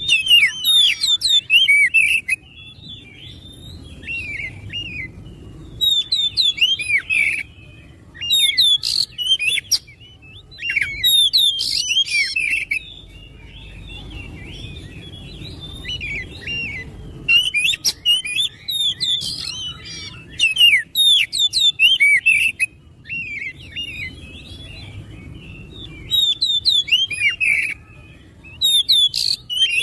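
Oriental magpie-robin (kacer) singing loudly: rapid, varied whistled and chattering phrases come in bursts of one to two seconds, with short pauses between them. A faint steady low rumble lies underneath.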